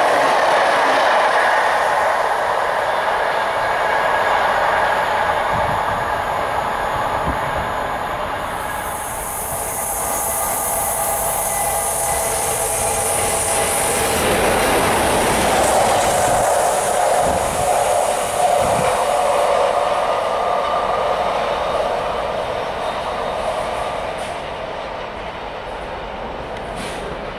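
A train of Pullman coaches passing close by, with the steady rumble and clatter of wheels on the rails, then the English Electric Class 37 diesel locomotive 37609 going by with its engine running. A high hiss joins the rumble about a third of the way in and stops about two-thirds through, and the train noise fades as it moves away near the end.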